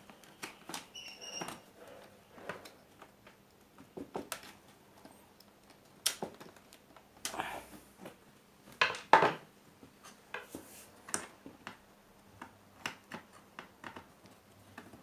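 Scattered clicks, taps and light metallic clinks of hand tools and small parts being handled during TV repair work. The loudest knocks come about nine seconds in.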